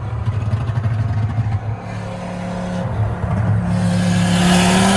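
Big-turbo BMW 540i's turbocharged B58 inline-six running hard, its note steady at first and then rising in pitch near the end as the car accelerates.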